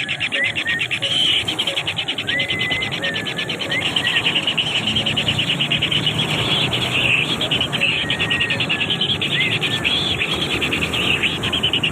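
A steady, rapid, high-pitched pulsing trill like chirring insects, with a few short whistled notes over it now and then.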